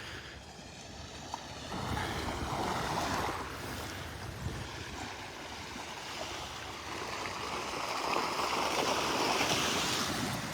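Small Gulf of Mexico waves breaking and washing up the beach, the surf swelling twice.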